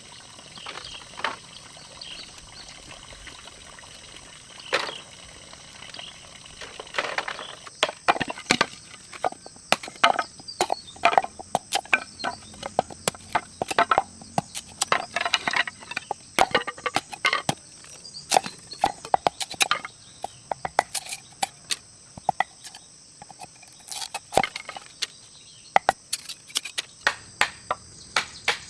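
A steady high-pitched chorus of crickets or other insects, with many sharp knocks and clicks coming irregularly and quickly, several a second, from about seven seconds in.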